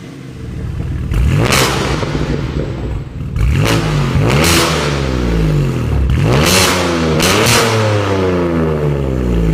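BMW M2 G87's twin-turbo 3.0-litre inline-six revved repeatedly through an aftermarket titanium equal-length mid pipe and valved muffler, the pitch climbing and falling several times. Loud, with a higher-pitched exhaust note than a stock M2.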